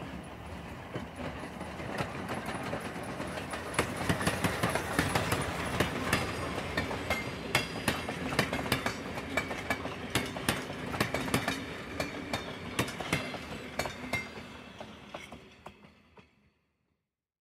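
A train running along the rails with a rattling clatter of many irregular sharp clicks. It fades away and cuts to silence shortly before the end.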